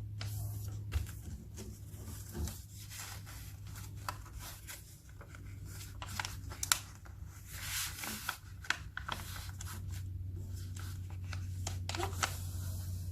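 A sheet of paper being folded and its creases pressed down by hand, giving irregular rustles and sharp crackles, over a steady low hum.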